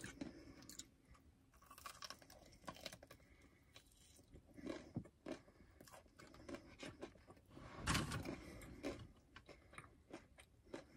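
Close-up chewing of a Korean corn dog with a crispy battered coating: faint, scattered crunches and mouth noises, with one louder burst about eight seconds in.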